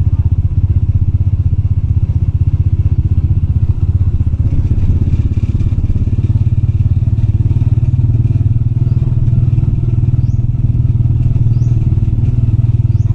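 Motorbike engine running steadily while riding, a low pulsing hum. A few faint short high chirps come near the end.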